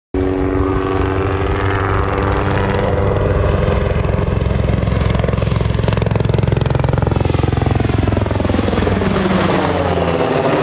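UH-60A Black Hawk helicopter passing close on approach to land: a loud, steady rotor beat with twin-turbine whine. The pitch of the sound sweeps down and back up near the end as the aircraft passes close by.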